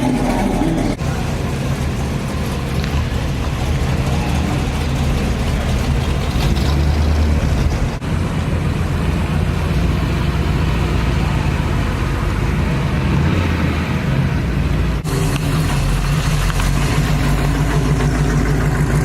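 Car engines running as cars drive out, a steady low rumble broken abruptly a few times.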